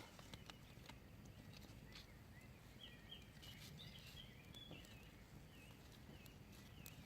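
Faint bird song: a run of short chirping notes starting about three seconds in, over a low steady rumble.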